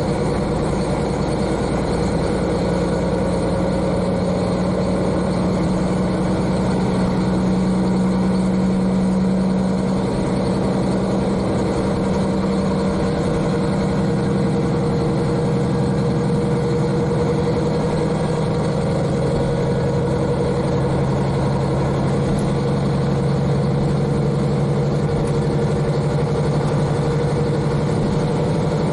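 KiHa 40 diesel railcar's N-DMF13HZI six-cylinder diesel engine running steadily under the floor, heard from directly above it, with train running noise. The engine note drops a little in pitch after about ten seconds.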